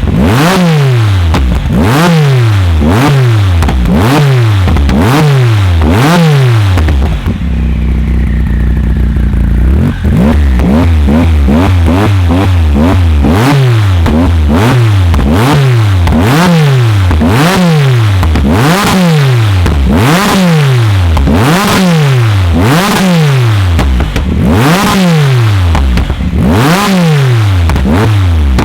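A tuned car's engine is blipped on the throttle about once a second, its pitch shooting up and falling back each time, with loud cracks from the exhaust. About seven seconds in it settles to idle for a couple of seconds, then the blips start again.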